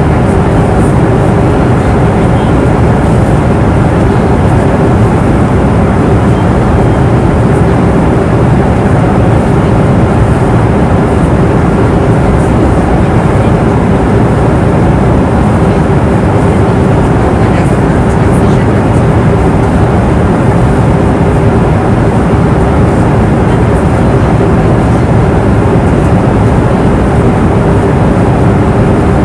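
Airliner cabin noise in flight: a steady, even rush of engine and airflow noise, heaviest in the low end, with a faint steady hum running through it.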